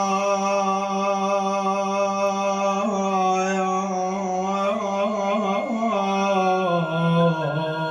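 A male voice holding one long wordless sung note in a mournful latmiya lament, with small ornamental turns partway through and a slide downward near the end.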